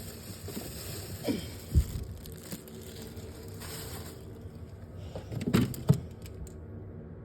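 A few short knocks and clatters of things being handled, the loudest about two seconds in and again near six seconds, over a steady low hum.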